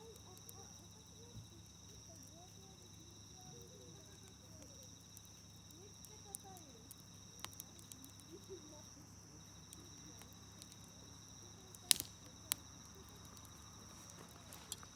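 Campfire crackling faintly, with scattered sharp pops, the two loudest about twelve seconds in. Behind it, steady high insect trilling and faint distant voices.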